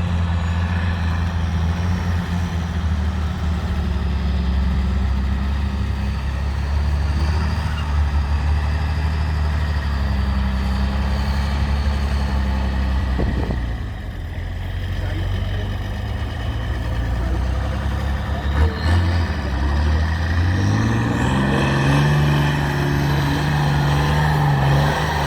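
Off-road trial truck's diesel engine running under load at steady revs, easing off about halfway through, then revving up with a rising pitch and holding the higher revs near the end.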